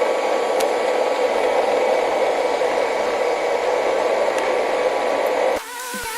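ILIFE V3s robot vacuum running with a steady whirring hiss. About five and a half seconds in, the vacuum drops out and electronic music begins.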